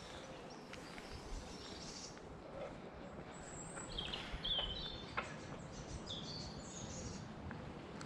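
Small birds chirping and singing: short, high calls and trills, thickest in the middle and later part, over faint outdoor background noise.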